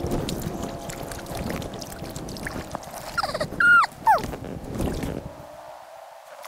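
Sped-up audio of kayak paddling, played at about four times speed, with a wash of water and paddle noise. About three to four seconds in come a few loud, squeaky, sliding chirps, typical of fast-forwarded voices. Near the end the low part of the sound drops away.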